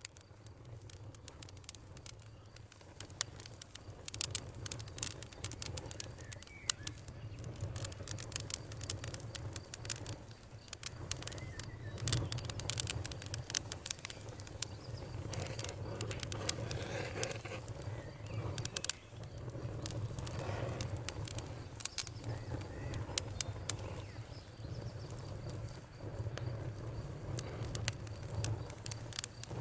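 Wood campfire crackling and popping in irregular sharp snaps over a low steady rumble of the flames, fading in over the first few seconds. Faint bird chirps sound now and then in the background.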